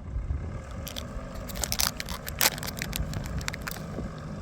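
Plastic sweet packet crinkling and rustling in irregular crackles as it is handled and opened, over a low steady drone of the boat's engine.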